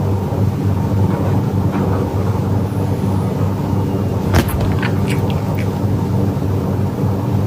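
Cat purring close to the microphone: a loud, steady, low rumble, with a sharp click about four seconds in and a few fainter clicks after it.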